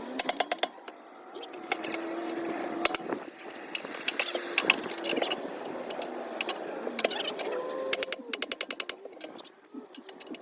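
Hand ratchet wrench clicking in several short, quick runs of about ten clicks a second, as nuts are worked during a tractor tire change.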